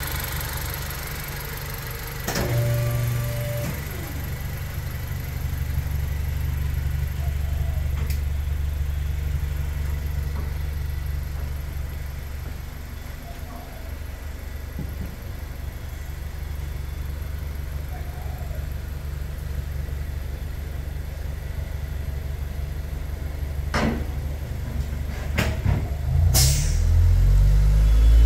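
Honda CR-V's 1.5-litre turbocharged four-cylinder running through a catless downpipe and dual aftermarket mufflers, idling with a steady low exhaust note. There is a short rise about two seconds in, a few sharp clicks, and the revs step up near the end.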